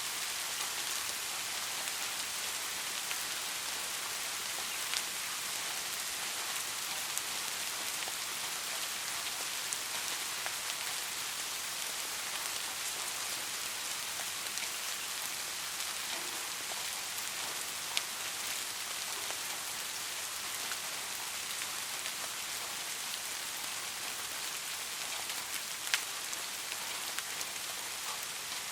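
Steady rain falling on a hard surface, an even hiss with a few sharper drops tapping now and then, one louder about 18 s in and another near 26 s.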